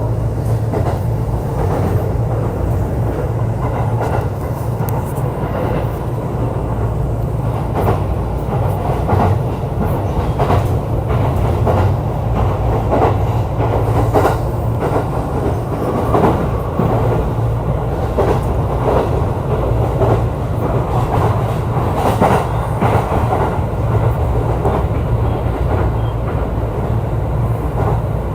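E531 series electric multiple unit running steadily at speed: a continuous rumble of wheels on rail with a low hum and frequent clicks from rail joints.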